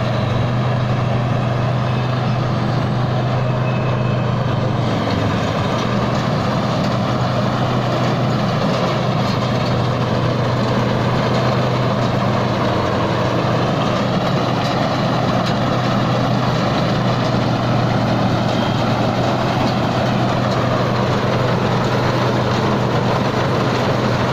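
Tai Seng rice combine harvester's engine running steadily under load, with the rattle of its track chains as it works through deep mud. The engine note dips slightly about five seconds in.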